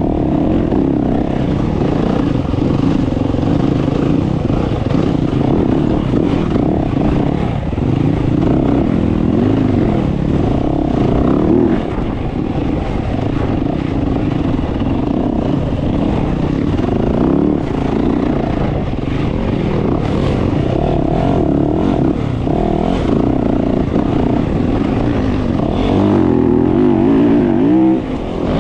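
Dirt bike engine running under constantly changing throttle, its pitch rising and falling as it is ridden. Near the end it revs up sharply, then briefly drops off.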